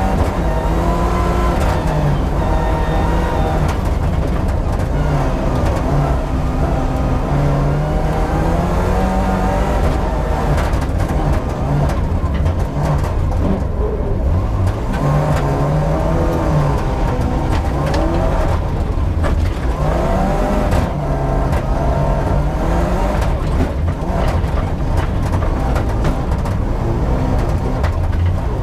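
Rally car's engine heard from inside the cabin at full stage speed on snow, revs climbing and dropping again and again through gear changes and lifts, over a constant low rumble.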